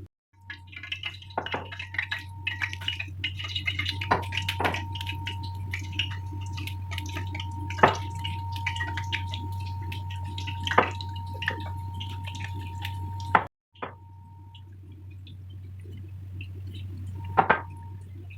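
Marinated chicken pieces deep-frying in hot oil, a dense crackling sizzle, with a few sharp metal clinks of a utensil against the pan. Under it there is a steady low hum and a constant high whine that stops about 13 seconds in.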